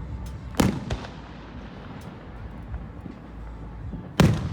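Two loud firework explosions about three and a half seconds apart, each a sharp boom with a low rumbling tail, loud enough to make the floor vibrate.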